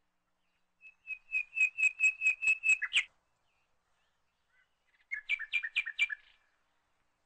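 A bird singing two short phrases of rapid, repeated high chirps. The first phrase has about four notes a second and ends in a louder note. The second, shorter phrase comes a couple of seconds later.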